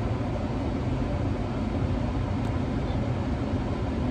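Steady low rumble and hiss of a running vehicle, even throughout with no distinct events.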